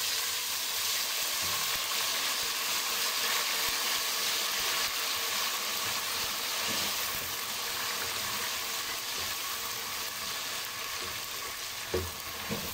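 Browned onions and ginger-garlic paste sizzling steadily in hot ghee in a pot while being stirred with a slotted spoon. A couple of light knocks near the end.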